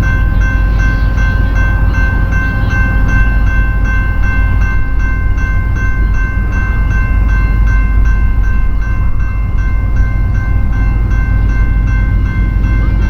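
BNSF freight train rolling past close by: a heavy, steady rumble with rapid regular clicking of wheels over the rails and a sustained high-pitched ringing tone that holds throughout.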